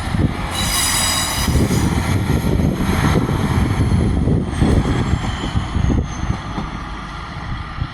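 Train moving through the station with a loud low rumble, its wheels squealing high and shrill about a second in. A high whine falls slowly in pitch midway.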